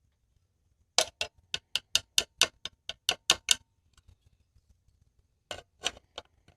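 A run of about a dozen sharp clicks, some five a second, that stops, then three more clicks near the end.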